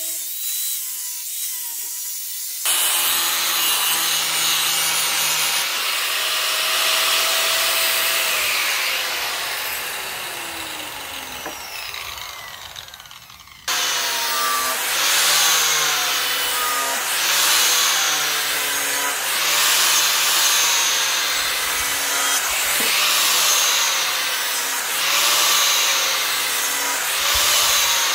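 A tool working the steel of a chainsaw bar being shaped into a blade, a rough grinding and rubbing noise over a motor hum. About halfway through the hum falls away as the noise fades. After a sudden cut it returns, rising and falling in regular back-and-forth strokes about every one and a half seconds.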